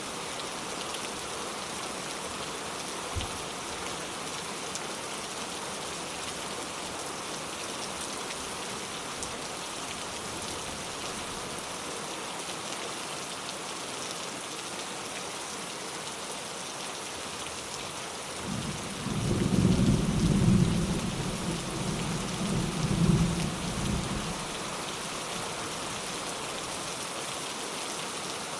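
Steady rain falling, with a low roll of thunder about two-thirds of the way through that swells in several peaks over about six seconds and fades back into the rain.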